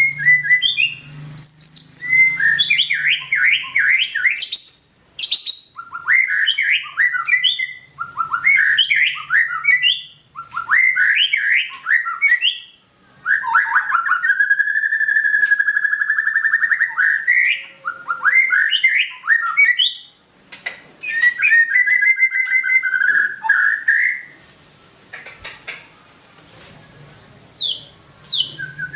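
White-rumped shama singing vigorously: a run of varied, fast whistled phrases a second or two long with short pauses, and one longer held phrase around the middle. The song goes quieter for a few seconds near the end before picking up again.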